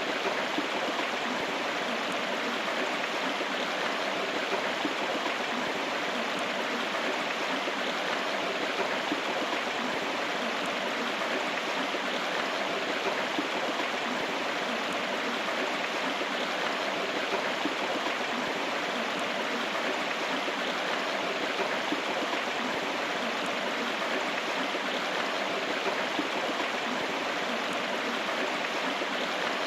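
River water flowing over rocks, a steady rushing and gurgling without change.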